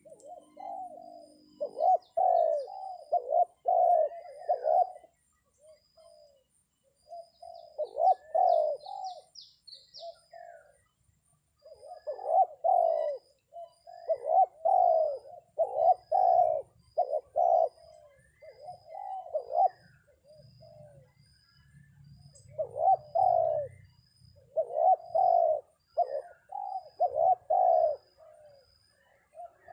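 Spotted dove cooing in repeated phrases of three to five low notes: a decoy dove calling to lure wild doves down. Faint high chirps repeat evenly behind it.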